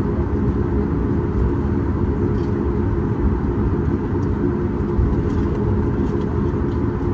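Cabin noise of a Boeing 737 MAX 8 at takeoff power: its CFM LEAP-1B engines give a steady, loud, deep rumble.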